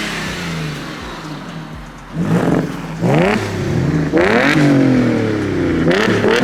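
Car engine with a new aftermarket exhaust revved in about four quick blips, each climbing sharply in pitch and then falling back to idle; it is loud and not raspy.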